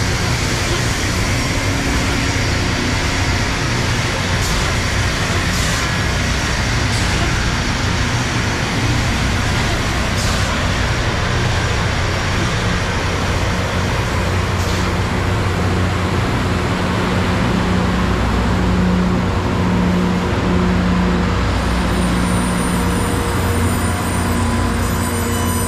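Loram rail grinder train rolling past at close range: a steady rumble of steel wheels and engines with a few sharp knocks in the first half. A low engine hum swells in the later part.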